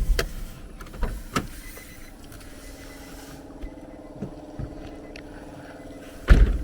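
Car engine running steadily, with a few short knocks early on and one loud, heavy thump near the end.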